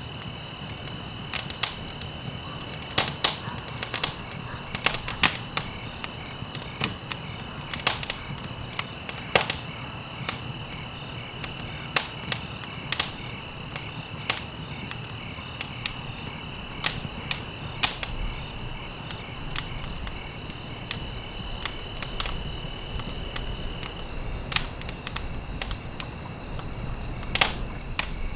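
Wood fire in a fireplace crackling, with sharp pops at irregular intervals over a low, steady rumble of the flames. A faint, steady high-pitched tone runs in the background and partly drops out near the end.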